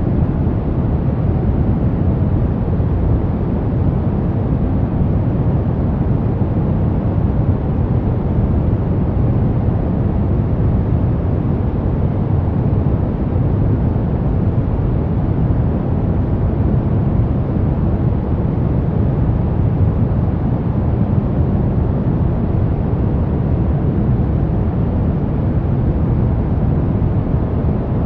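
Brown noise: a steady, deep, even rush with most of its weight in the low end, without rhythm or change.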